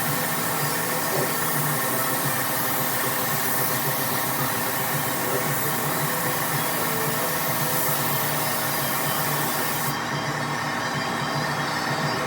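Spray gun hissing steadily as urethane clear coat is sprayed, over a steady motor hum. The highest part of the hiss drops away about ten seconds in.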